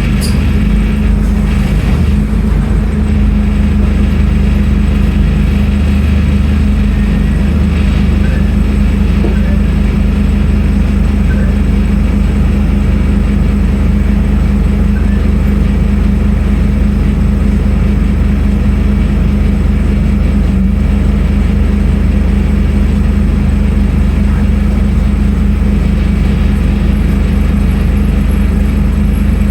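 Scania N310UA articulated city bus's diesel engine running with a steady, unchanging drone and a low hum.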